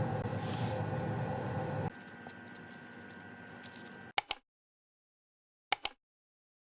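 A small electric motor running with a steady hum that stops about two seconds in, followed by light rattling and two pairs of sharp clicks.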